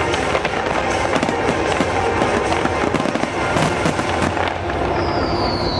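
Dense fireworks finale: many aerial shells bursting together in continuous rapid crackling and bangs. A high falling whistle starts near the end.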